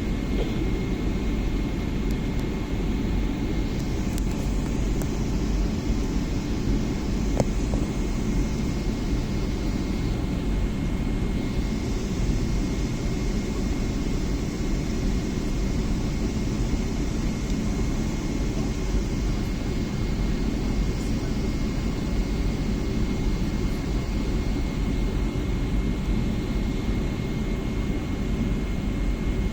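Steady low rumble of a Boeing 777-300 airliner heard from inside the passenger cabin, with a faint steady high tone running through it.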